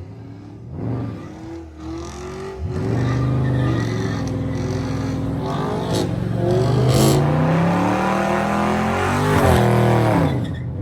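Car engine revving hard: a few quick blips, then held at high revs with the pitch climbing steadily before dropping off near the end.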